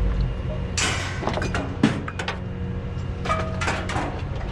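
Scrap metal pieces clattering and knocking as they are handled and dropped, in two short spells, the sharpest knock about two seconds in, over a steady low hum.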